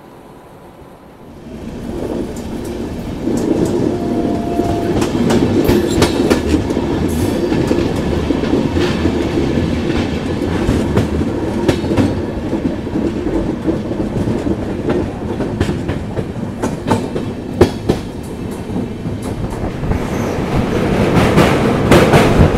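Moving passenger train, its wheels clicking over the rail joints over a steady rumble, heard close from the side of the coach. The sound comes up from faint to loud about two seconds in and swells again near the end.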